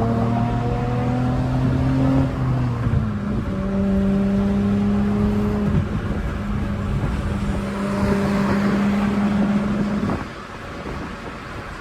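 Straight-piped V6 Honda Accord exhaust while driving: the engine note climbs for about two seconds, drops in pitch with a brief break like a manual upshift, then holds steady. About ten seconds in the steady note stops and the sound drops quieter, as if the driver has lifted off the throttle.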